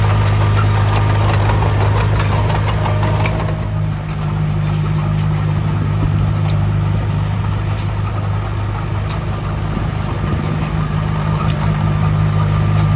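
The diesel engine of heavy earthmoving machinery running steadily with a deep hum, with scattered knocks and rattles. The rougher working noise eases off about four seconds in.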